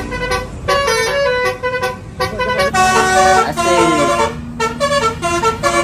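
Bus telolet horn playing a quick melody of short notes that step up and down in pitch.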